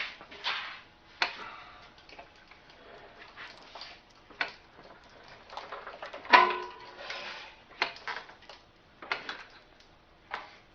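Scattered metal clanks and knocks from tractor drivetrain parts and tools while the halves of an IH 584 are worked back together. The loudest is a clank about six seconds in that rings briefly.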